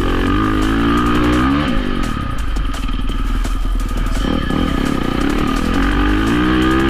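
Dirt bike engine accelerating with its pitch rising, dropping back about a second and a half in, running low for a couple of seconds, then revving up again near the end.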